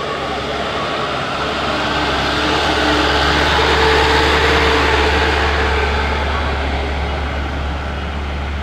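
Heavy truck engine running with road and driving noise, a steady low hum under a rushing noise that swells louder about halfway through, then eases off.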